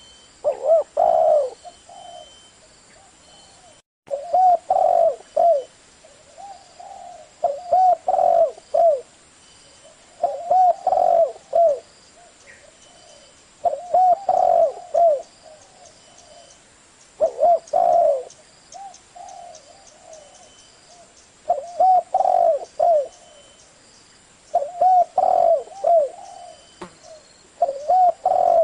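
Spotted dove cooing in the deep 'giọng thổ' voice. Repeated phrases of several low coos come about every three seconds.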